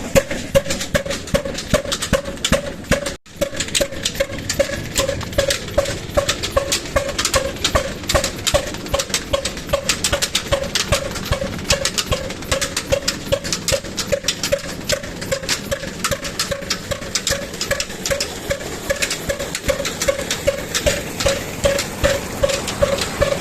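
Old 18 HP stationary diesel engine running a well pump, firing in a steady, even beat of about two to three knocks a second. The sound cuts out briefly about three seconds in.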